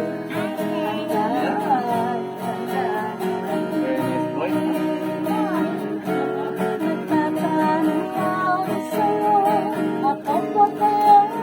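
Acoustic guitar strummed with a voice singing over it.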